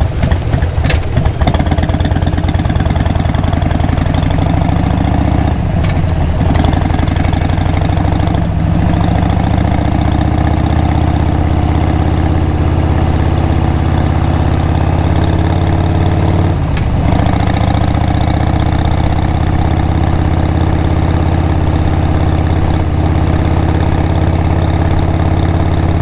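2002 Harley-Davidson XL883R Sportster's 883 cc air-cooled V-twin running at low, steady revs through Cobra 909 SpeedSterShort aftermarket mufflers. The beat is choppy and uneven for the first second or so, and the note dips briefly a few times.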